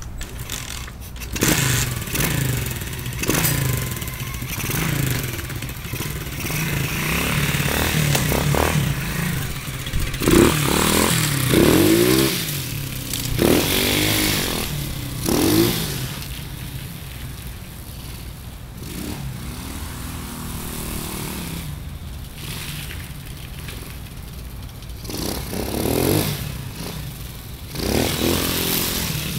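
Gio 125 pit bike's single-cylinder four-stroke engine catching about a second in and running, with its muffler packed with extra stuffing to quiet it. It is revved several times in the middle, the pitch rising and falling, then settles to idle, with a couple more revs near the end.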